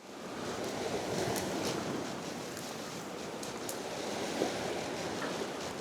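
Steady outdoor rushing noise, with a few faint ticks and a small knock about four seconds in.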